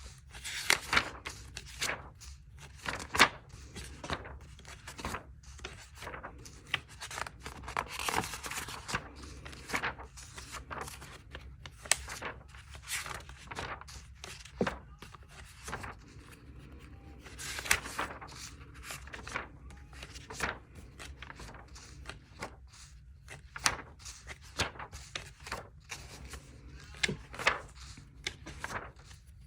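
Paper pages being handled and turned: irregular rustles and swishes with light knocks and scrapes.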